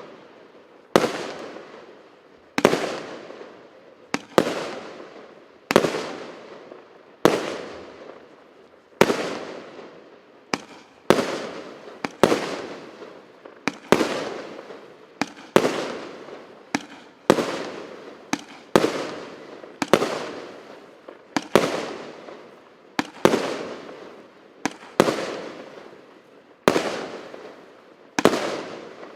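A 128-shot, 1-inch firework cake firing shot after shot, about one every second and a half. Each shot is a sharp bang followed by a fading tail.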